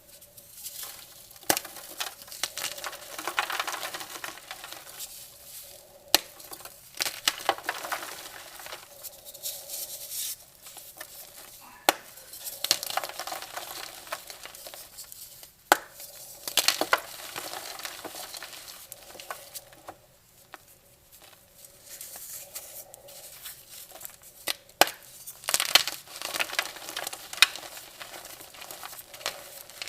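Gym chalk coated in baking soda paste being crumbled and crushed by hand: gritty crackling and crunching in bouts, with sharp snaps now and then.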